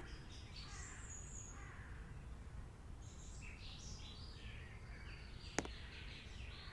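Faint birds chirping, scattered short calls over a low steady rumble, with one sharp click late on.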